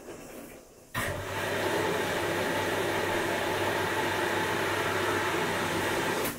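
Washing machine switching on a steady hum with a rushing noise about a second in, running evenly for about five seconds and cutting off suddenly near the end. A few faint knocks come before it.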